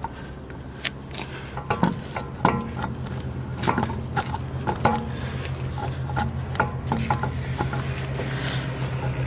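Irregular metallic clinks, knocks and scrapes as a wheel is fitted back onto the hub and the lug nuts are threaded on, over a steady low hum.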